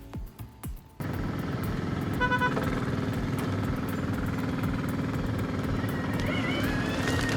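A few hoof clops in the first second, then a cut to a heavy hydraulic logging rig's engine running steadily. A short beep-like toot sounds about two seconds in, and a rising whine comes near the end.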